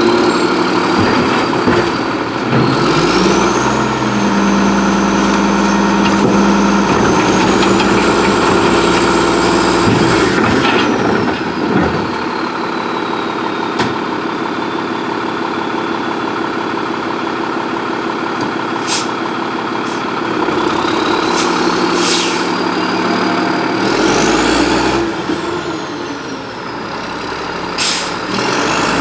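Freightliner Condor garbage truck's engine revving up and holding to drive the Amrep MSL side-loader's hydraulics, with a high pump whine that rises and later falls, twice, for about eight and five seconds. A few short sharp noises come between the two cycles and near the end.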